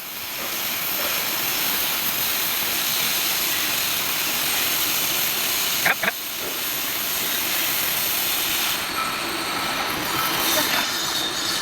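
Steady hiss of a cutting torch on a CNC pipe-cutting machine cutting through steel pipe, with a brief sharper sound about six seconds in.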